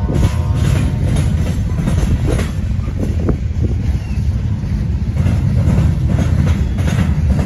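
Freight train of gondola cars rolling past: a steady low rumble of steel wheels on rail, with irregular clacks as the wheels cross rail joints.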